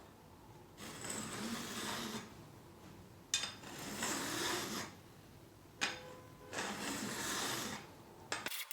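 Metal file drawn across the ends of stainless-steel guitar frets: three long strokes of about a second and a half each, with a sharp click between strokes.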